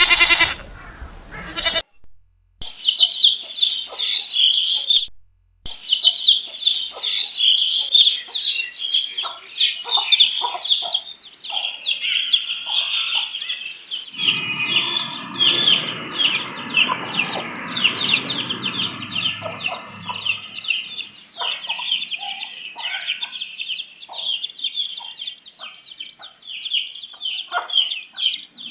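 A goat bleating, then a large flock of chickens with many overlapping high, falling peeps and clucks. A rough, lower rustling noise runs under them for several seconds midway.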